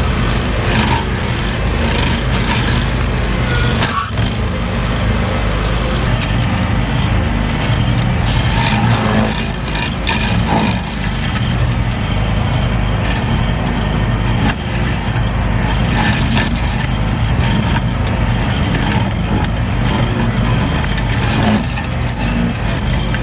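Lawn mower engine running steadily at a constant speed, with a few brief knocks along the way.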